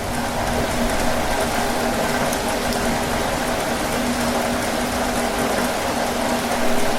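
Heavy rain falling steadily on a tin roof, a dense even patter with no break.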